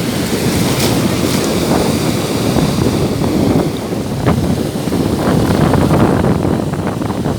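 Stormy sea surf: waves rushing and breaking, with strong wind buffeting the microphone.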